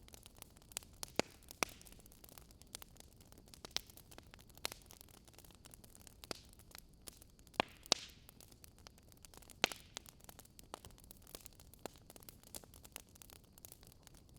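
Wood fire crackling: irregular sharp pops and snaps over a soft steady hiss, with a few louder pops scattered through.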